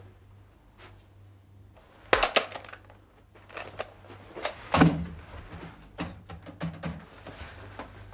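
A series of knocks and clicks: a sharp cluster about two seconds in, a heavy thump near five seconds, then lighter knocks after it.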